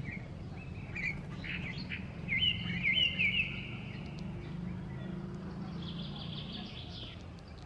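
Small birds chirping and calling, with a quick run of rising-and-falling notes about two and a half seconds in, over a steady low background hum.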